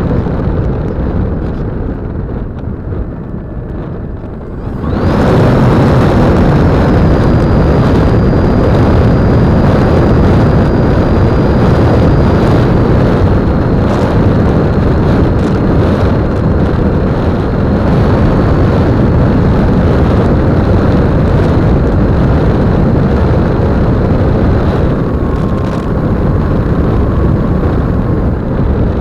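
Electric motor and propeller of an E-flite Apprentice 15e RC trainer plane running, heard through the on-board camera under heavy wind rush, with a thin high whine. It jumps much louder about five seconds in, and the whine then slowly drops in pitch.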